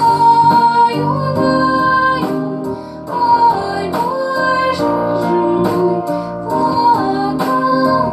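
A song: a female voice singing long held notes over an instrumental backing.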